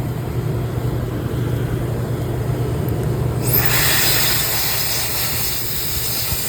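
A steady low hum, then about halfway through a cordless electric air duster switches on: its small motor whines quickly up to speed and settles into a loud, steady rush of blown air.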